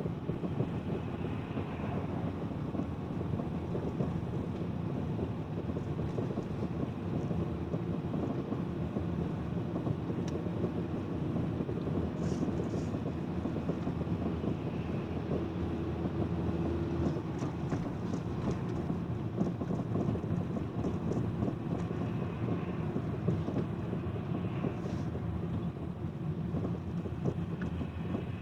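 Chevrolet Cruze suspension knocking now and then over steady road and cabin noise while driving, with scattered short knocks, several close together in the middle. The car is still cold at about −10 °C, a knock from the running gear that lessens as it warms up but does not go away.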